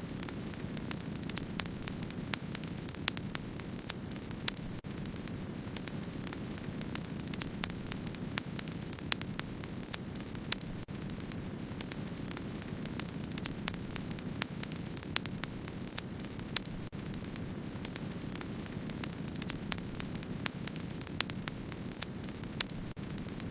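Wood fire burning: a steady low rumble of flames with frequent small crackles, several a second, and an occasional louder pop.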